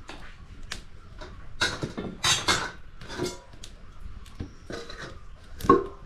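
Dishes and cooking utensils clattering: scattered knocks and short scrapes, the loudest a strike near the end that rings briefly.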